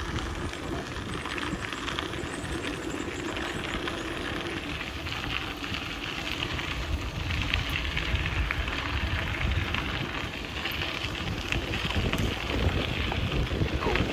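Wind buffeting the microphone of a camera carried on a moving bicycle, a constant low rumble, with a steady hiss of tyre and trail noise underneath.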